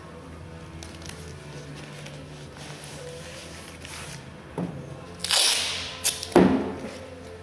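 Masking tape being pulled off the roll and torn, in two short rasping rips about five and six seconds in, with a small click just before.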